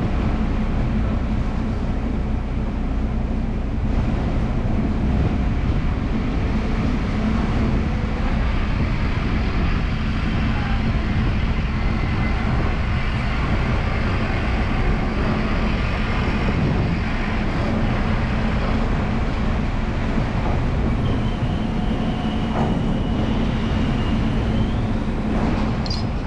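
Steady drone of a diesel ferry engine heard on board, with a low hum that holds at one pitch throughout.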